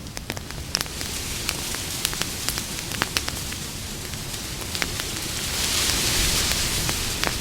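Campfire burning, with frequent sharp crackles and pops over a low steady rumble of flames. A louder hiss swells for a second or two about six seconds in.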